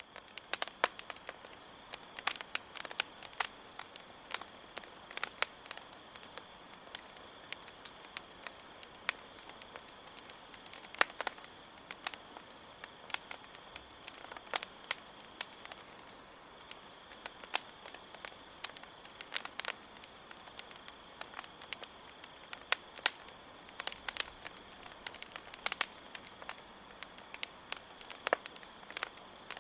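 Campfire crackling, with sharp pops at irregular intervals, over a steady high-pitched cricket chirring.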